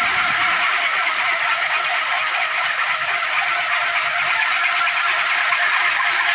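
Kolecer, a wooden propeller spun by the wind on a pole, whirring in a steady drone with no break.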